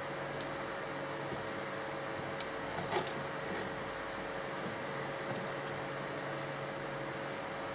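Steady hiss and low hum, with a few small, faint clicks a little under halfway through.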